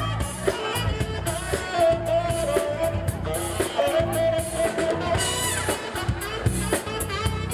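Live band playing upbeat disco-funk dance music, with drum kit, bass and long held notes over a steady beat.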